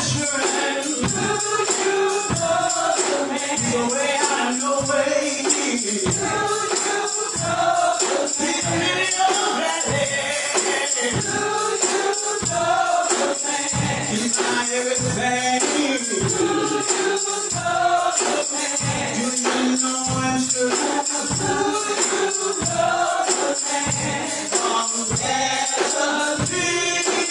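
Gospel choir singing with tambourine over a steady beat.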